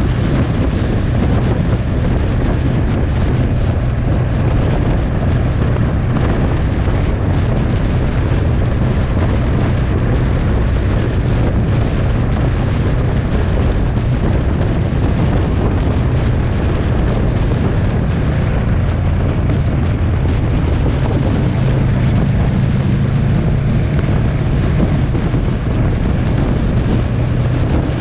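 Motorcycle engine running steadily at cruising speed, with heavy wind rushing over the microphone.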